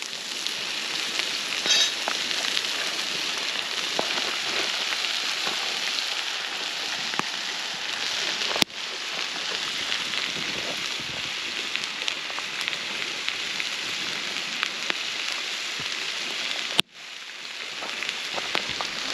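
Food sizzling over a campfire, a steady hiss with fine crackles. The sound breaks off abruptly twice, about nine and seventeen seconds in, and picks up again each time.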